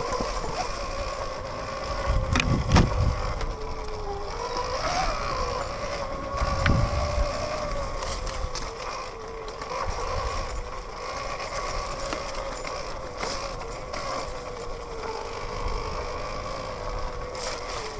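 Sur-Ron electric dirt bike's motor whining steadily while riding a trail, the pitch dipping about four seconds in and climbing again as speed changes. Two low thuds land around three and seven seconds in.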